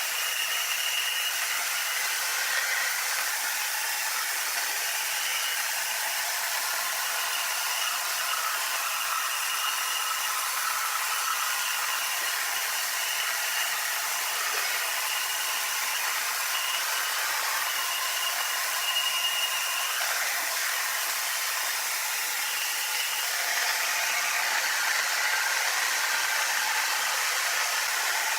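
Sawmill machinery running: a steady hissing whir with a thin, high whine that comes and goes, a little louder in the last few seconds.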